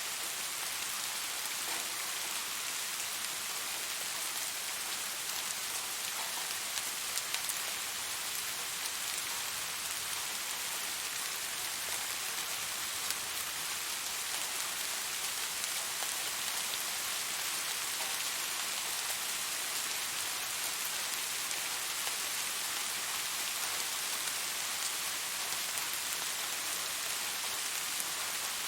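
Steady rain falling, a dense even hiss with the odd louder individual drop ticking.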